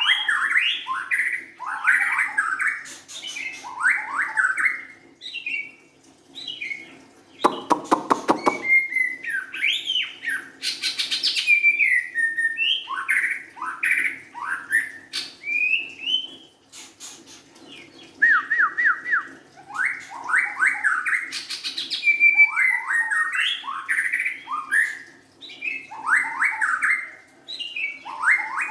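White-rumped shama singing a run of short, varied whistled phrases with brief pauses between them, including a harsh rattling note about eight seconds in and a quick series of clipped notes around eighteen seconds. A faint steady hum lies underneath.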